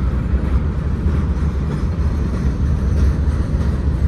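Manifest freight train's cars rolling past, a steady low rumble of steel wheels on the rails.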